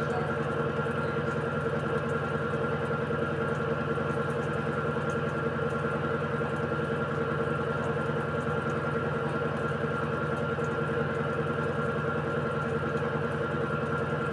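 Electrolux Essential Care 14 kg washing machine (model LED14) in its spin cycle, its drum spinning at a steady speed: an even hum with several constant tones.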